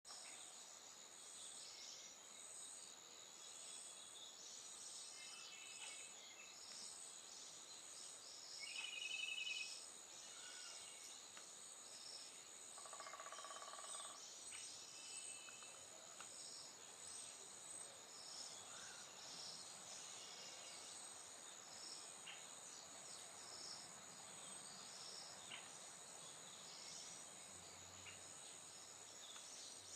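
Faint outdoor insect chorus: a steady high-pitched trill with a pulsing shimmer above it, with a few brief bird calls, one about nine seconds in and a lower one around thirteen seconds.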